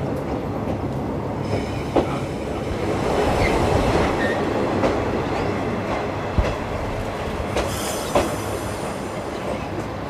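Running noise heard inside a 50-series passenger coach hauled by a DD51 diesel locomotive: a steady rumble of wheels on rail, with a few sharp knocks from the rail joints.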